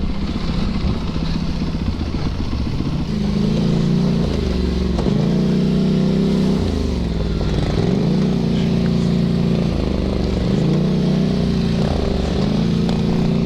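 Yamaha YZ450FX four-stroke single-cylinder dirt bike engine running under way, its revs dipping and picking up again several times with the throttle.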